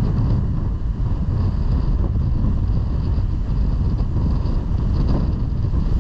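Strong wind buffeting the action camera's microphone: a loud, steady low rumble with a fainter rushing hiss above it.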